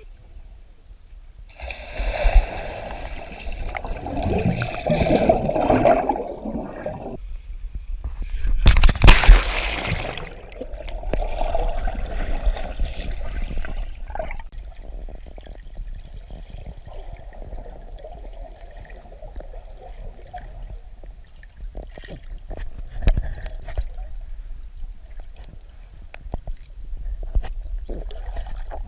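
Water sloshing and splashing, with the loudest splash about nine seconds in, then quieter gurgling.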